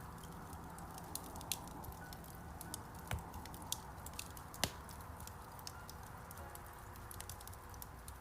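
Wood fire crackling in a fireplace: a steady low rumble of flames with many irregular small snaps and two louder pops, about three and four and a half seconds in.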